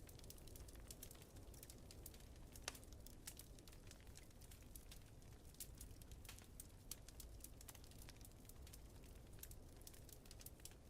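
Wood fire crackling, with frequent small irregular pops and one sharper pop about two and a half seconds in, over a faint low steady rumble of blizzard wind.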